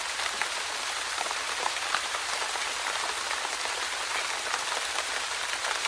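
Steady rain-like patter: an even hiss dotted with fine crackles.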